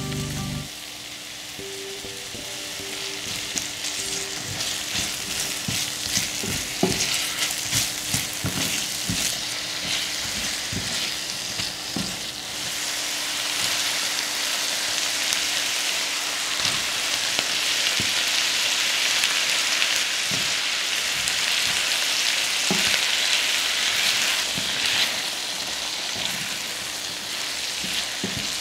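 Diced onion, garlic, sliced sausages and cherry tomatoes frying in oil in a cast-iron skillet, sizzling steadily. Scattered knocks and scrapes against the pan come mostly in the first half, and the sizzle grows louder about halfway through.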